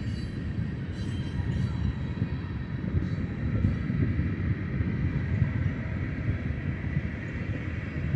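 A BNSF freight train of empty ethanol tank cars rolling past, giving a steady low rumble of steel wheels on the rails.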